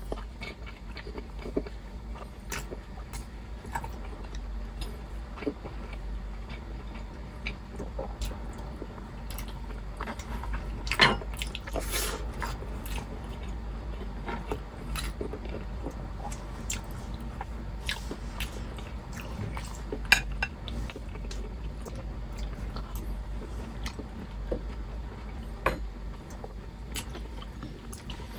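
Close-miked chewing and wet mouth sounds of a person eating braised beef ribs by hand, with scattered short clicks and clacks and a couple of louder clacks along the way.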